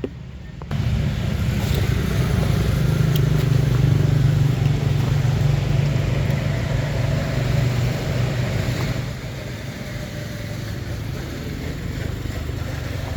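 A motor engine running steadily with a low hum, starting abruptly about a second in and easing off a little after about nine seconds.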